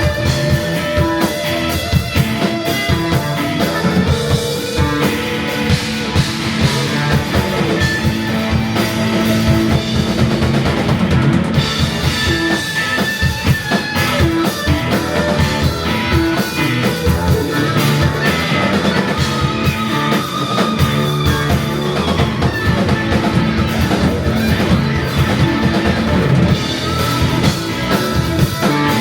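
Live psychedelic rock band playing instrumentally: drum kit, bass, electric guitar and electric violin in a loud, steady ensemble passage.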